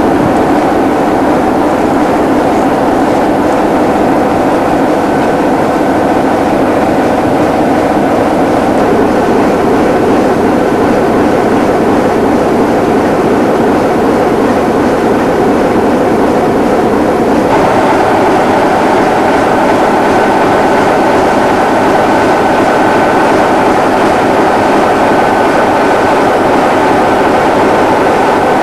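A heritage railway train running steadily, a continuous loud rumble of wheels on track with faint steady tones in it. The sound shifts in tone about two-thirds of the way through.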